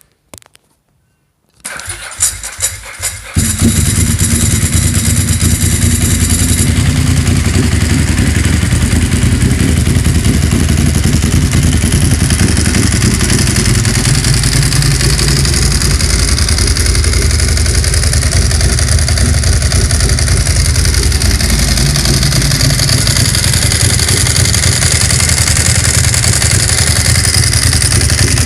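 Ducati Monster S4Rs 998 cc Testastretta L-twin with a full Arrow exhaust and open airbox, cranked on the starter about two seconds in, catching after a second and a half, then idling loudly and steadily.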